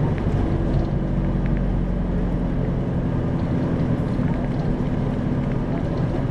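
Isuzu 2RG-LV290N4 city bus's four-cylinder turbo diesel engine running with a steady low drone, heard from inside the passenger cabin, with a few faint rattles.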